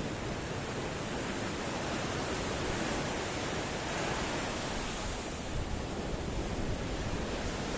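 Ocean surf: a steady rush of waves, swelling slightly about halfway through.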